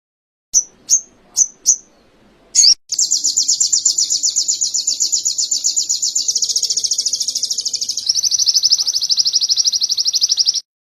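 Small songbird singing canary-style song: four quick chirps, then a fast, loud trill lasting about eight seconds that drops slightly in pitch near the end and stops abruptly.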